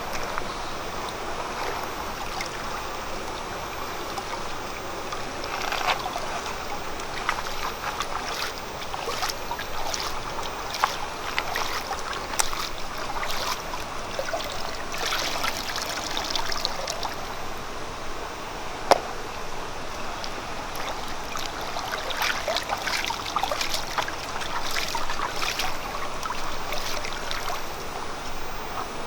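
Steady flowing water with scattered short clicks and crackles through it, and a sharper single click about two-thirds of the way in.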